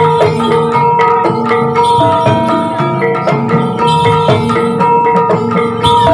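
Javanese gamelan music of the kind that accompanies a kuda lumping dance: bronze metallophones struck in quick repeating patterns of ringing notes, over drum strokes.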